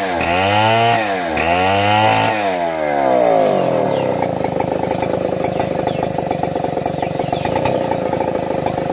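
Chainsaw engine running, its pitch dipping and recovering about once a second for the first three seconds. It then drops to a steady lower note for the rest.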